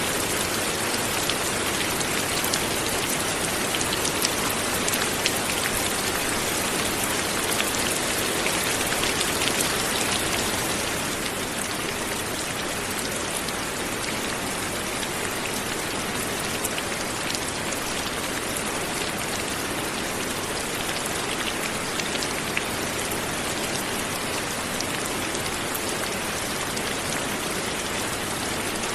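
Light, steady rain falling on a surface, a dense hiss of many small drops with scattered sharper drop ticks; it eases slightly about eleven seconds in.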